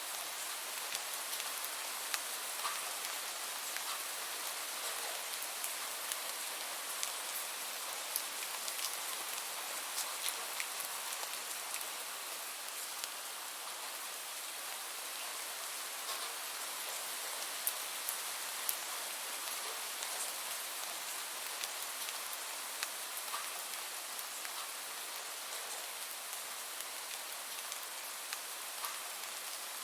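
Steady rain falling, an even hiss with scattered sharp drop taps at irregular moments.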